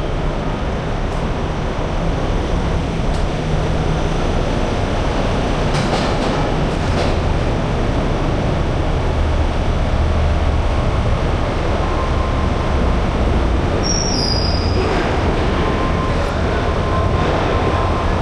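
Semi-truck driving: a steady, loud rumble of engine and tyre noise on the road.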